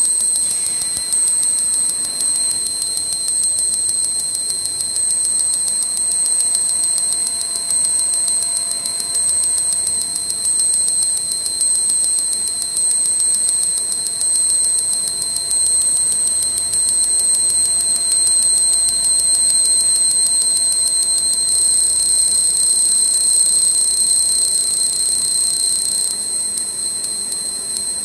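Fiber laser marking machine marking a machined metal workpiece: a loud, steady high-pitched whine with overtones, which shifts slightly about three-quarters of the way through.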